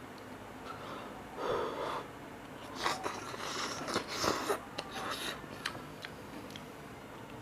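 Mouth sounds of someone eating cup noodles: a breath about a second and a half in, then a run of short slurps and wet clicks over the next few seconds.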